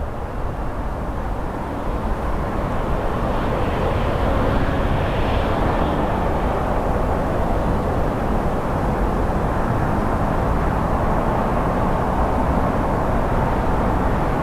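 Jet airliner engines running, a steady rushing noise that grows louder over the first few seconds and then holds.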